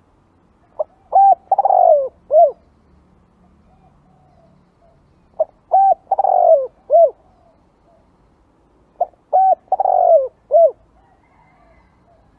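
Spotted dove cooing, its song given three times about four seconds apart. Each phrase is a short note, two quick coos, one long falling coo and a final short coo.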